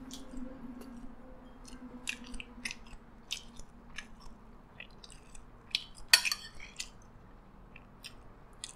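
Close-miked chewing of a mouthful of fried rice, with wet mouth clicks, and light clinks of a metal spoon against a ceramic bowl and plates. The sharpest clink comes about six seconds in.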